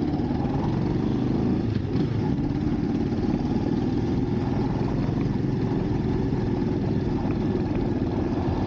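Motorcycle engine running steadily at an even speed, with no change in pitch or level.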